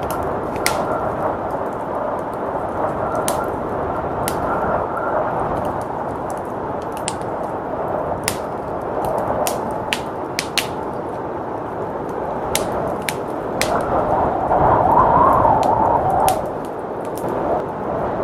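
Wood fire crackling, with sharp irregular pops and snaps over a steady rush of blizzard wind. The rushing swells louder about 14 seconds in and drops back about two seconds later.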